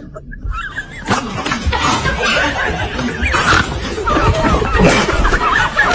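High-pitched laughing and giggling that starts about a second in and goes on in quick, wavering bursts, with a few short hissing bursts among them.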